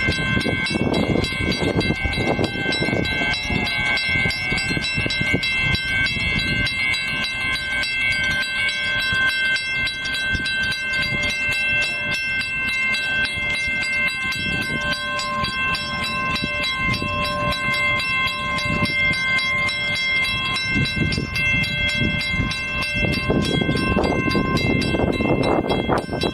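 Electric commuter train running, a continuous rumble with several steady high-pitched tones held over it, swelling louder near the end.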